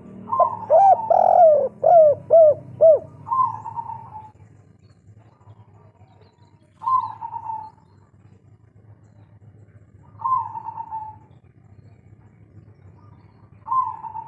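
Spotted dove (derkuku/tekukur) cooing. A quick loud run of arching coos fills the first three seconds, then single short falling coos come about every three and a half seconds.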